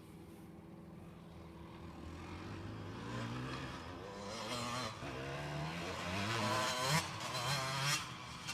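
Motocross bike engine revving up and down repeatedly as the bike comes nearer, growing louder, with the sharpest rises and cut-offs near the end.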